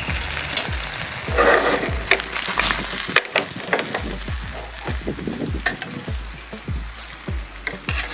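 Chicken sizzling in a pan in its honey and citrus sauce glaze, with repeated clicks and knocks of a utensil stirring it.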